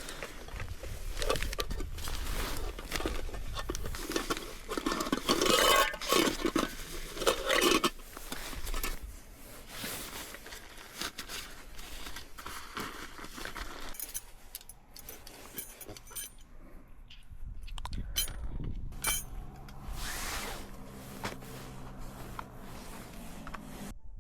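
Camping gear being handled and set out: irregular clinks, scrapes and rustles of metal and plastic, busiest in the first several seconds. A low steady hum comes in near the end.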